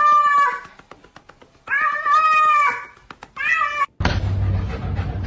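Three long, drawn-out, high-pitched calls from a pet animal, each rising and falling slightly. About four seconds in, the sound cuts abruptly to a steady low rumbling noise.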